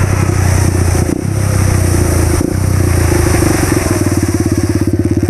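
2013 Yamaha WR250F's single-cylinder four-stroke engine running under way, with brief dips about one and two and a half seconds in, then settling into a slower, even putter after about four seconds.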